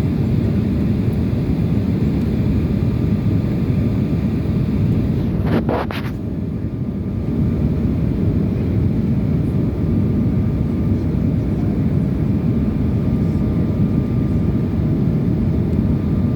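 Steady low drone of an airliner's engines and airflow heard inside the cabin in flight, with a brief rustle or clicks about six seconds in.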